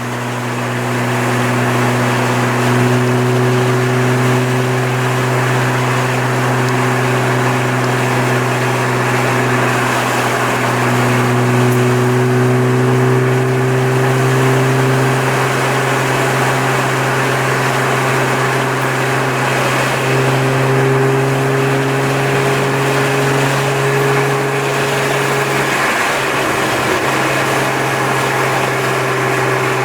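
Audi B5's 2.8-litre 30-valve V6 running through a straight-pipe exhaust at a steady cruise, a loud, even drone that shifts a little in pitch now and then. Near the end the pitch drops briefly and then settles back.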